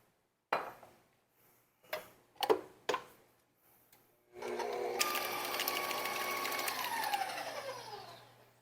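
A few short knocks and clatters, then an electric stand mixer starts about four seconds in and beats thick cheesecake batter with a steady whining motor. Near the end it is switched off and the whine falls in pitch as the motor winds down.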